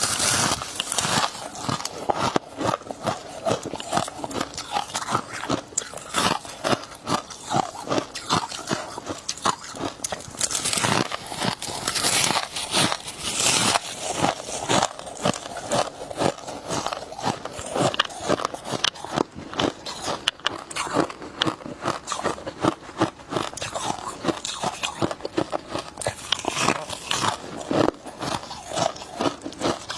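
Close-miked chewing of freezer frost ice: a dense, continuous run of crisp crunches, several a second.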